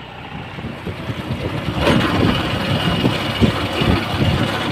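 Captain 280 DX mini tractor's diesel engine running, getting louder about two seconds in.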